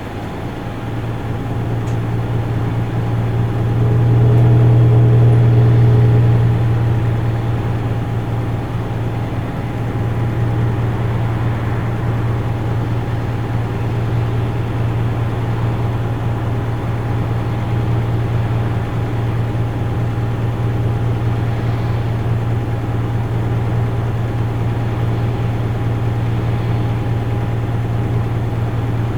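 Isuzu Erga Mio city bus's diesel engine running under way, with a steady low hum and a faint steady high tone. It grows louder about four seconds in, eases back around nine seconds, then runs steady.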